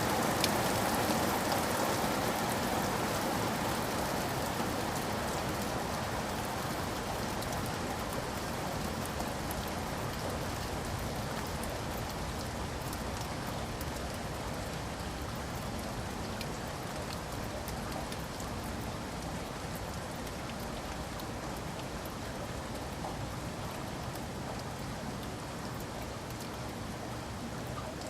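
Steady rain falling, an even hiss with scattered drop ticks, easing slightly in loudness over the stretch.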